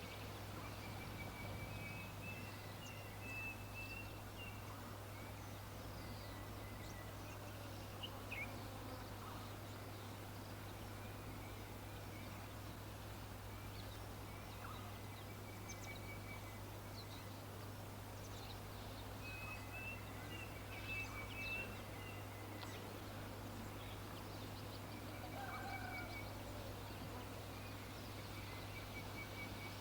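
Songbirds calling faintly: scattered short chirps and a repeated chirping phrase, heard about two seconds in and again about twenty seconds in, over a steady low hum.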